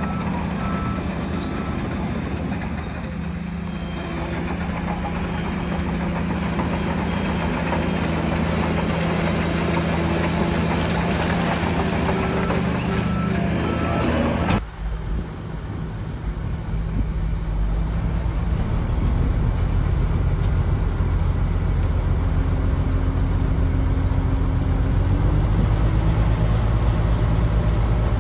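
Diesel engines of heavy earthmoving machines running at a steady note, with a reversing alarm beeping at the start and again about twelve seconds in. About fifteen seconds in the sound cuts abruptly to a deeper engine rumble that grows louder.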